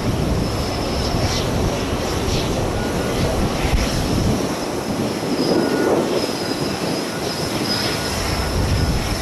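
Airbus A320neo airliner's jet engines running with a thin steady high whine, under heavy gusting wind buffeting the microphone. The low wind rumble eases about four seconds in.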